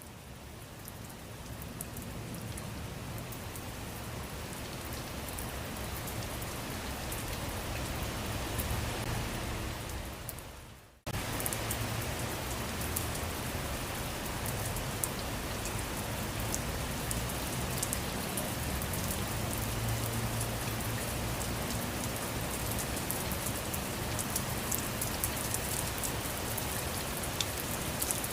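Steady rain falling, with many individual drops ticking. It fades in at the start, fades away about ten seconds in, and cuts back in abruptly a moment later at full strength.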